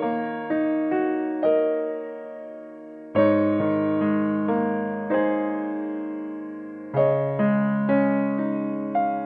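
Background music: slow, soft piano chords, each struck and left to ring out and fade before the next.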